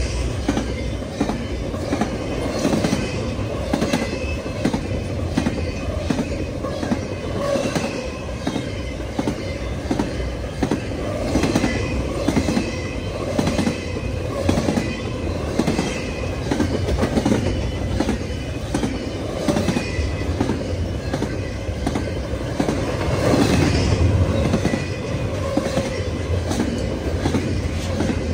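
Railroad cars rolling past close by, their wheels clacking over the rail joints in a continuous, uneven series of clicks, with a thin wheel squeal now and then.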